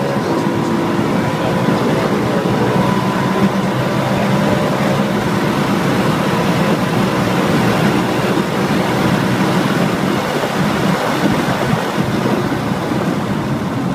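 BMW E92 M3's V8 engine pulling hard at high revs, heard from inside the cabin, with its tone clearest at first and then buried under a steady rush of wind and road noise as the car runs at well over 100 mph.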